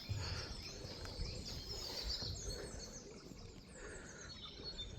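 Songbirds singing, many short high chirps and trills overlapping, with low rumbles on the microphone near the start.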